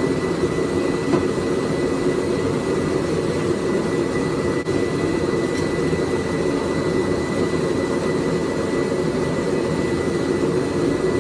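Homemade blacksmith's forge running: a steady rushing noise with a thin, constant high whine above it.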